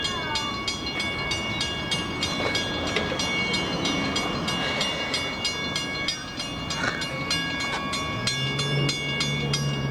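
Long Island Rail Road M7 electric train sound, with a rapid, regular ticking and several steady high tones held throughout. A low steady hum comes in about eight seconds in.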